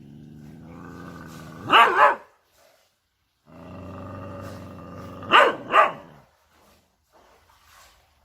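A dog growling in a long low rumble that breaks into two quick loud barks, then a second growl ending in two more barks.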